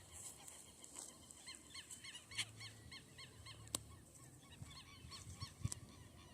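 Faint bird calls: runs of short repeated notes, about five a second, in two bouts, with a couple of sharp clicks in between.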